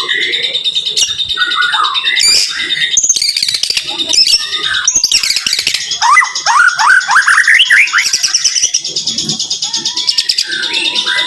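White-rumped shama (murai batu) singing a dense, rapid-fire song of varied short notes and trills, with a run of quick rising whistles about six to eight seconds in.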